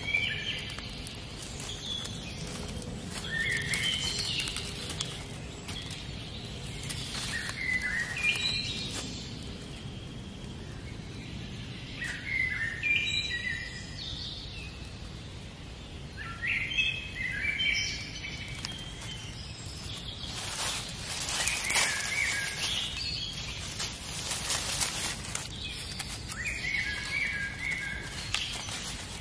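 A bird singing a short phrase of high chirping notes, repeated every four seconds or so, over steady outdoor background noise. About twenty seconds in there is a few seconds of scratchy rustling.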